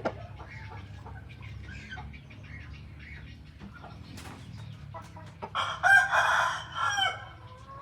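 Chicken rooster crowing once, loud and lasting over a second, starting about five and a half seconds in, the call dropping in pitch at its end. Before it, short, quieter clucks and calls from the chickens.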